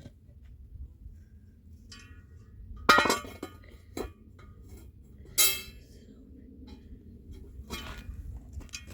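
Tableware clinking: two sharp, ringing clinks about three and five and a half seconds in, with a few lighter knocks between and after.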